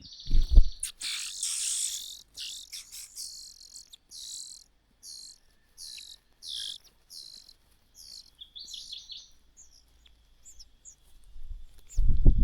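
Small birds chirping: a dense burst of high chirps for the first two seconds, then short high calls about twice a second that thin out. A low thump about half a second in and another at the very end are the loudest sounds.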